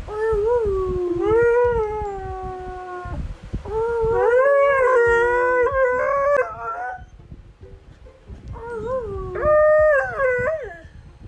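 Dog howling in three long, wavering calls, with short pauses between them.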